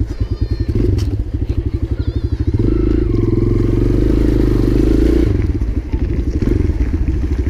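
Dirt bike engine running under throttle while climbing a snowy driveway. About a third of the way in it is held harder and louder for a couple of seconds, then eases off.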